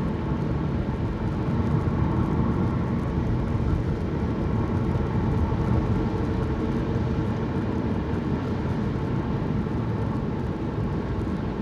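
Car being driven along a road, heard from inside the cabin: a steady hum of engine and tyre noise.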